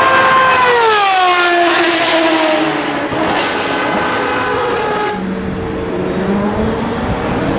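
Dallara SP1 prototype's Judd V10 racing engine at high revs, its howl dropping in pitch as it passes by. A lower engine note takes over about five seconds in.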